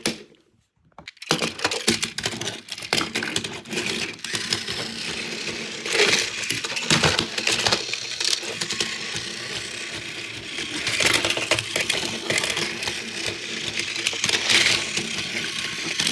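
Small battery motor and plastic gears of a toy Thomas train running, starting about a second in, with a continuous rapid clicking and rattling. The owner takes it for a gear skipping.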